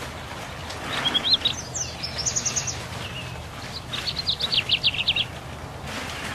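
A songbird singing two quick phrases of high chirping notes, the first about a second in and the second about four seconds in, the second a rapid run of falling notes. A low steady hum runs underneath.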